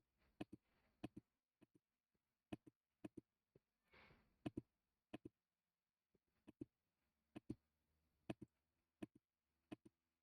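Faint computer mouse clicks, many of them scattered unevenly and often in quick pairs, with a short soft rustle about four seconds in.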